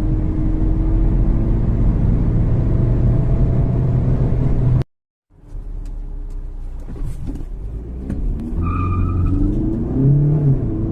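Skoda Octavia's 2.0 TDI four-cylinder diesel engine pulling hard under acceleration. The sound cuts off abruptly about five seconds in and comes back quieter. A short electronic beep sounds near the end, then the engine revs up again, its pitch rising and dropping as the gearbox shifts.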